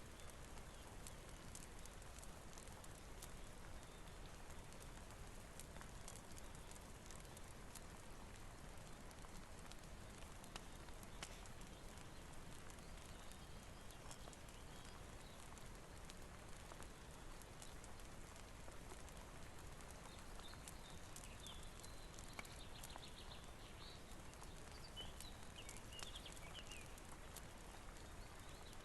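Faint steady rain with a wood fire crackling: scattered sharp ticks over an even hiss. A few faint high chirps come in about two-thirds of the way through.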